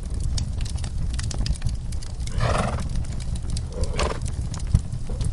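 A horse gives a breathy blow about two and a half seconds in and a shorter sound about a second later. Underneath are the scattered pops of a crackling wood fire and a steady low rumble.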